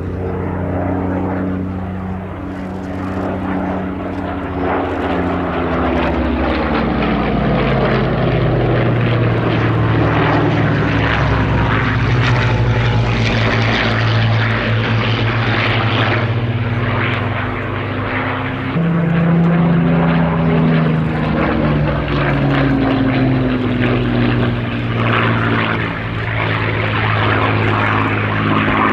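Rolls-Royce Merlin V12 engine of a WWII fighter in a display, a continuous loud propeller drone. The engine note falls in pitch about six seconds in as the aircraft passes, steps up again about two-thirds through, then falls again.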